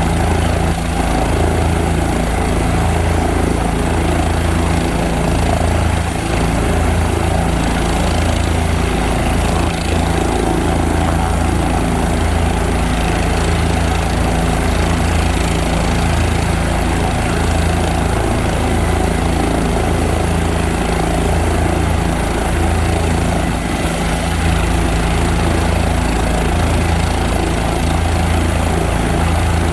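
Helicopter's turbine engine and main rotor running steadily, a constant low-pitched drone.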